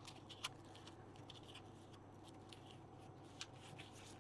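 Near silence with faint rustles of paper being handled and a few light clicks, the clearest about half a second in and another near the end, as paper pieces are lined up and pressed into place.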